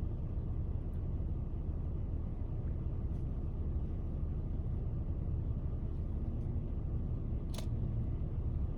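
Steady low rumble of a car's engine and tyres heard from inside the cabin while driving on snowy roads, with one short click about seven and a half seconds in.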